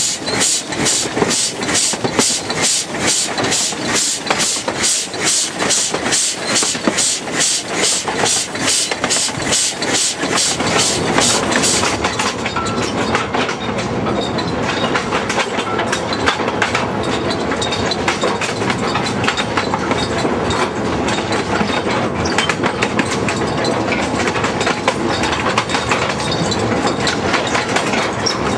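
Narrow-gauge train running along the track, heard from inside a coach: wheels clattering in a fast regular rhythm of about three beats a second, changing about twelve seconds in to a denser, steady rumble.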